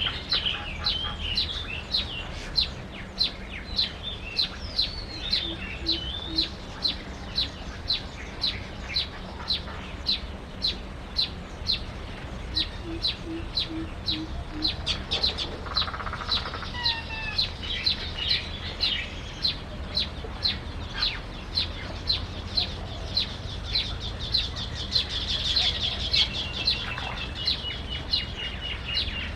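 A bird giving a steady series of short, sharp chip calls, about two a second, with other birds' brief chirps and gliding whistles over it.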